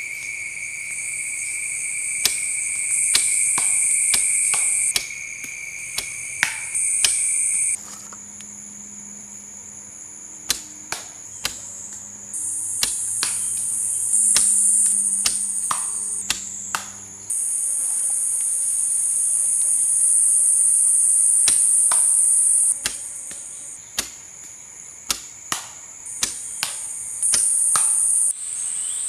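Insects chirring steadily in a high pitch, the sound starting and stopping abruptly in segments, with scattered sharp knocks or clicks throughout.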